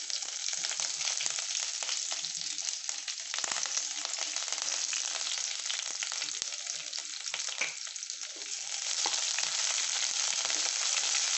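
Sliced onions and curry leaves sizzling in hot groundnut oil in a kadai, with a wooden spatula stirring and scraping through them. The sizzle grows louder near the end.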